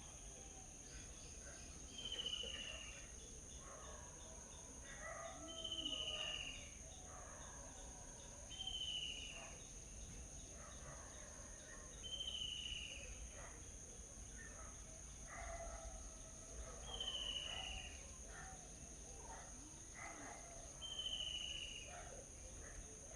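A bird repeats a short call that falls in pitch, six times, about every three to four seconds. Other birds chirp faintly, over a steady high drone of insects.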